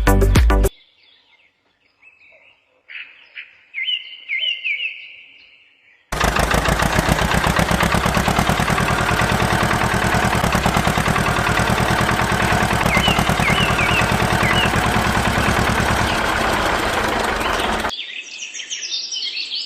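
Birds chirping for a few seconds, then a loud, rapidly pulsing mechanical noise lasting about twelve seconds with birds still chirping through it; near the end the noise stops and quieter chirping carries on.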